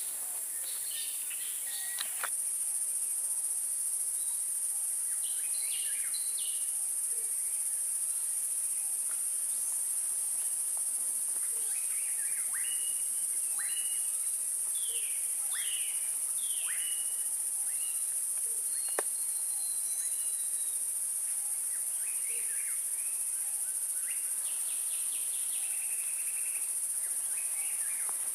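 A steady, high-pitched insect drone, with scattered bird calls over it, including a run of short downward-sweeping notes in the middle. There is a single sharp click near two-thirds of the way through.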